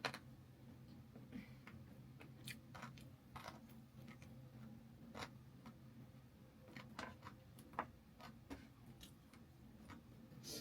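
Faint eating sounds: irregular clicks and crunches of someone chewing and biting chicken leg pieces, over a low steady hum.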